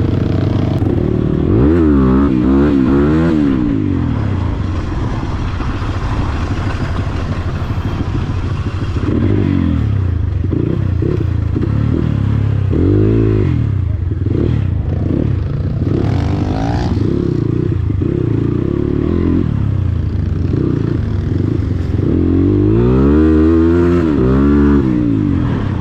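Dirt bike engine running under way on a rough trail, the revs swinging quickly up and down near the start and again near the end, and steadier in between.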